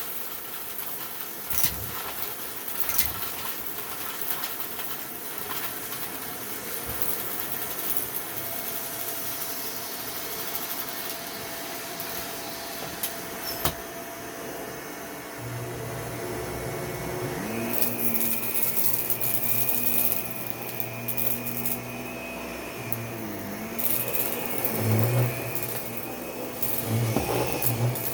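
Vacuum cleaner working over carpet, a steady rushing noise; about halfway through, a steady low motor hum and a thin higher whine come in, with brief louder surges near the end.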